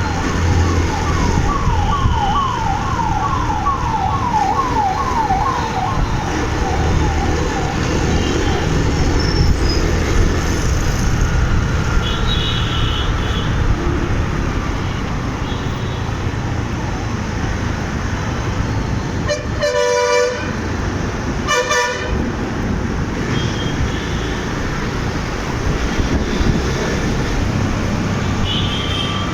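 Busy city road traffic heard from a moving motorbike: continuous engine and road noise. A siren yelps rapidly over the first several seconds and fades out. Two loud vehicle horn honks come about two seconds apart around two-thirds of the way through.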